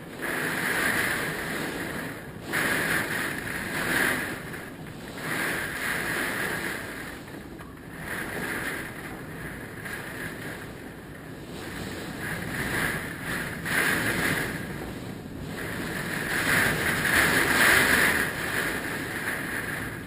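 Hurricane wind gusting, surging and easing every couple of seconds in a continuous rush of noise, loudest a little before the end.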